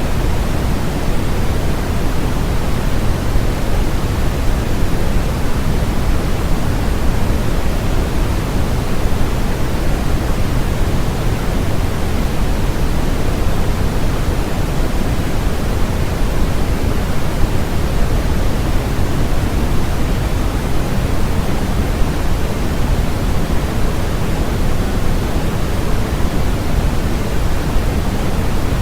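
Steady, unchanging generated noise played as white noise, heavier in the low end than in the highs, so it sounds more like a deep rush than a thin hiss.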